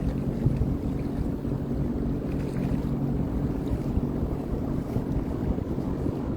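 Sea-Doo Fish Pro personal watercraft engine running, a steady low hum that fades about halfway through, with wind buffeting the microphone.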